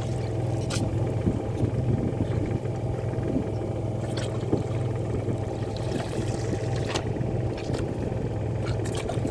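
Fishing boat's engine running steadily at a low, even hum, with a few faint clicks over it.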